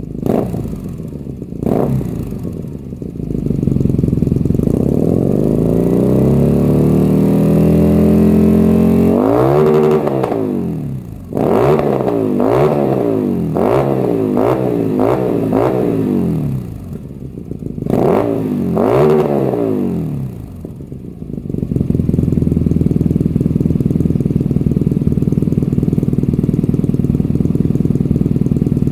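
BMW R nineT Racer's boxer twin barking through a Leo Vince true dual exhaust, revved without moving: a few quick throttle blips, then a long climb in revs held near the top, a fast string of six or seven blips and two more. It then settles into a steady idle for the last several seconds.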